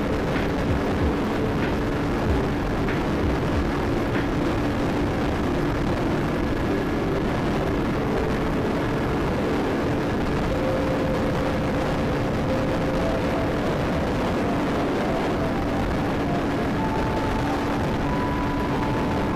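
Motorcycle engine running steadily at highway speed under a constant rush of wind and road noise, with a faint tone climbing in steps near the end.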